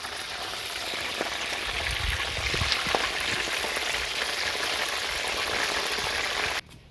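Food frying in hot oil in a cooking pot: a steady sizzle with scattered pops and crackles that cuts off suddenly near the end.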